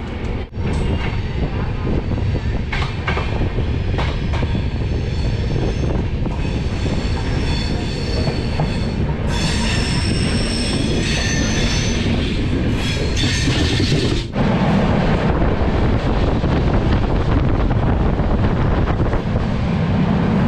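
Passenger train running on the rails, heard from aboard, a steady rumble with a high-pitched squeal of steel wheels on the track over it. About 14 seconds in there is a brief break, after which the squeal is gone and only the rumble remains.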